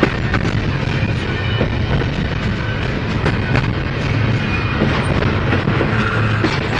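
Freight train rolling past: a steady rumble with scattered clicks of wheels over the rail joints.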